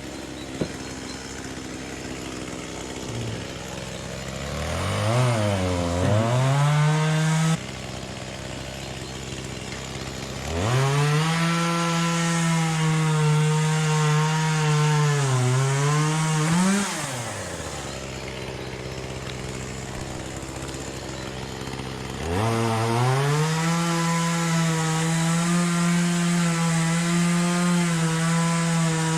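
Two-stroke chainsaw alternating between idle and full throttle: three long revs, its pitch sagging and recovering as the chain cuts into oak, dropping back to idle between cuts.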